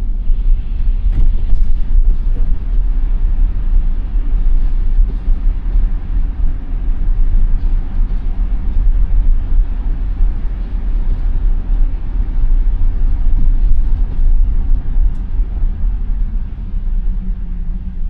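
Steady low rumble of tyre and road noise from a 2021 Tesla Model Y driving on a snow-covered road, heard inside the cabin.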